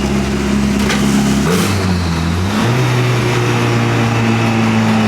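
Turbocharged KA24 four-cylinder engine of a 1993 Nissan 240 running on E85. Its note holds steady, shifts in pitch about a second and a half in, then settles at a new steady pitch.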